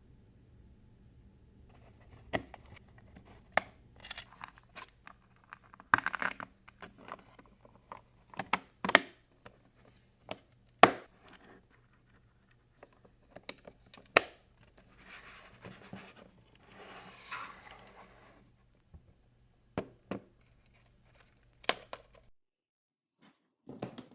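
Toy packaging being torn open and crinkled by hand: irregular sharp snaps and crackles, the loudest about halfway through, with a stretch of softer rustling tearing a little after that.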